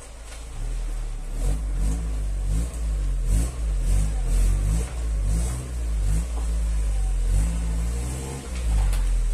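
Volkswagen Passat estate's engine running as the car is reversed slowly, the revs rising and falling several times.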